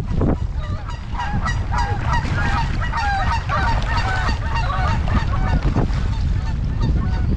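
A flock of geese honking, many short calls overlapping, dying away about five and a half seconds in, over a steady low rumble of wind on the microphone.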